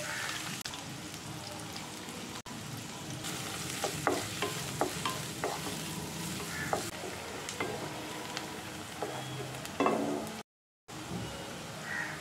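Chopped onions sizzling as they fry in oil in a non-stick kadai, stirred with a wooden spatula that clicks and scrapes against the pan several times, with the loudest knock near the end.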